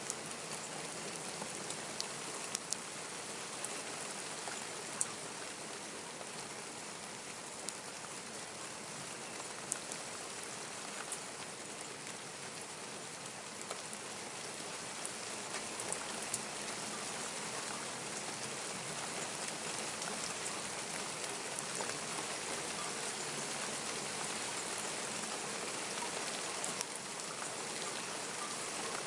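Steady rainfall, a constant hiss of rain on the ground with scattered sharp drips and drop impacts close by.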